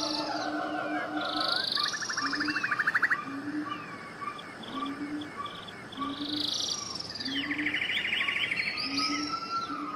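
Several wild birds singing together: high chirps, whistled slides and fast rattling trills, twice. Under them a short low note repeats about once a second.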